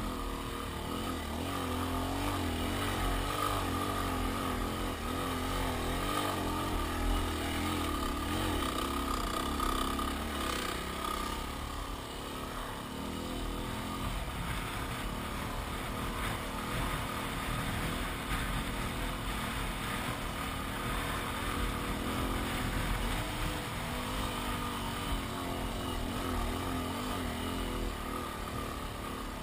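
Yamaha WR250R's single-cylinder four-stroke engine running as the motorcycle is ridden, its note rising and falling with the throttle in the first half, then steadier.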